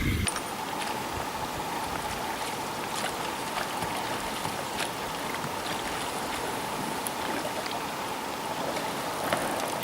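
Steady rush of river water at a riffle, with a faint steady hum and a few light clicks.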